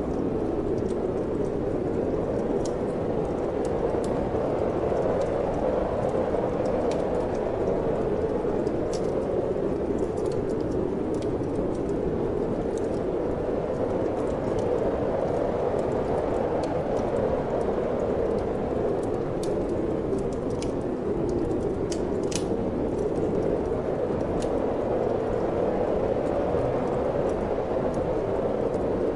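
Steady wind, with the scattered small crackles of a wood fire in a fireplace.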